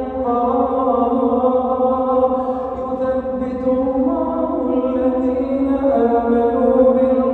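A man reciting the Quran in a slow, melodic chant, holding long drawn-out notes that step to new pitches a few times.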